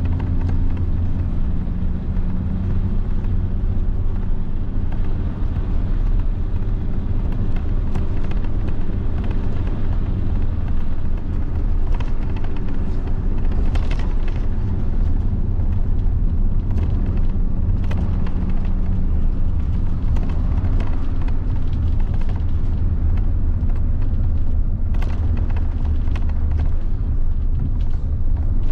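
1990 Mitsubishi Fuso bus's 7.5-litre diesel engine running steadily under way, a deep drone with road noise. Its pitch shifts a few times as the engine speed changes.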